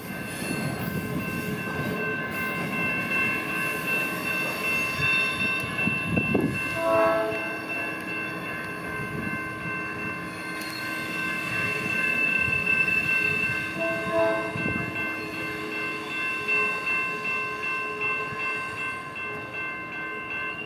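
Electric commuter train running away along street track, with steady high-pitched ringing throughout. Its horn sounds twice, about a third and two-thirds of the way in.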